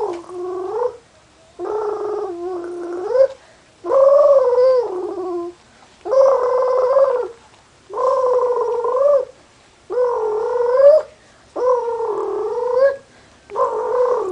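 A baby cooing in a run of long, drawn-out vocal sounds, about one every two seconds, each with a gently bending pitch.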